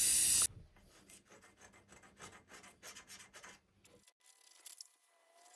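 A loud hiss cuts off about half a second in. Then come faint, quick rubbing or scraping strokes, about four a second, lasting about three seconds.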